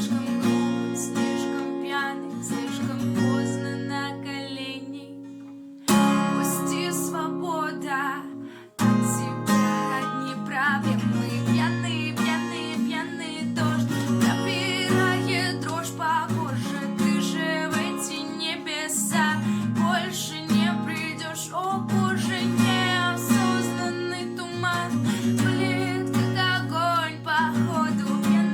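Acoustic guitar strummed and picked, playing a song accompaniment, with two short breaks about six and nine seconds in.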